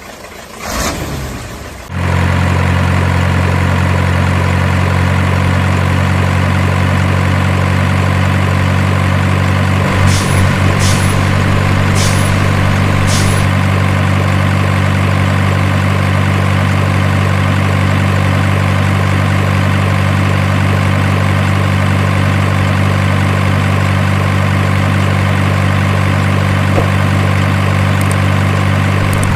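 Truck engine idling sound, starting about two seconds in and holding very steady, with four short clicks around the middle.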